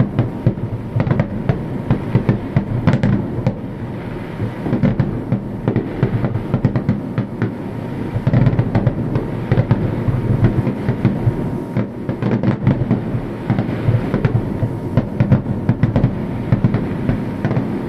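Aerial fireworks bursting in a dense, continuous barrage: many sharp bangs and crackles one after another over a deep, rolling rumble.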